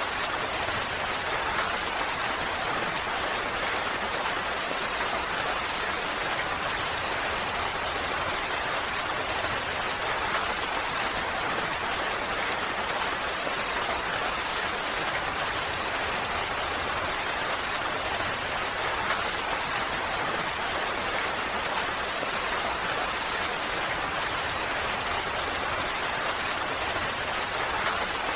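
Steady rain falling, an even hiss with scattered droplet ticks.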